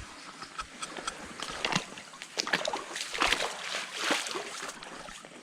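Footsteps wading and splashing through shallow stream water: irregular sloshing splashes, a few louder ones in the middle.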